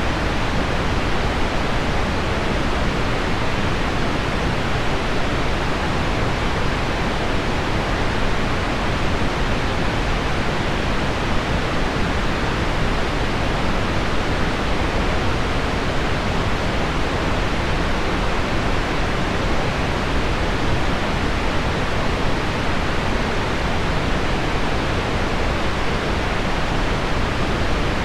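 Heavy rain on window glass blended with deep pink noise, an even, steady hiss that does not change.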